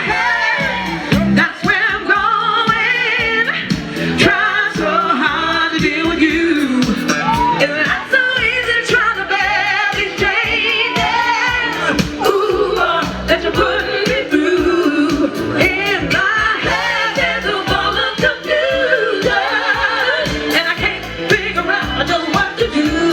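Live soul/R&B music played loud through a large PA: a singer's vibrato-laden vocal over a full band backing.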